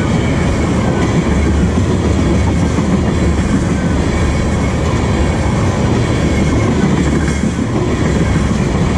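Freight train of tank cars rolling past: a loud, steady rumble of steel wheels on the rails.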